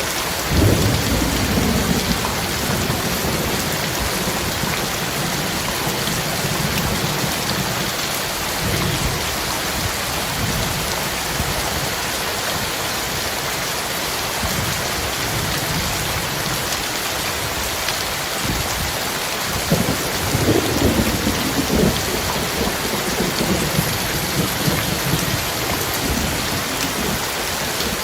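Heavy rain falling steadily in a thunderstorm, with thunder rumbling low underneath: one roll breaks about half a second in and another about twenty seconds in.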